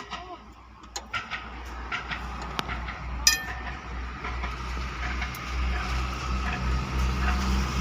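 Ruston stationary diesel engine running with a steady low rumble that grows louder over the second half, as it picks up speed. Scattered sharp metallic clinks sound over it, one loud one near the middle.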